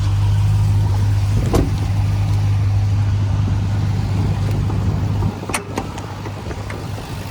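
Ram TRX's 6.2-litre supercharged V8 idling with a steady low drone that weakens a little about five seconds in. A few sharp clicks come over it, one about a second and a half in and two close together near five and a half seconds.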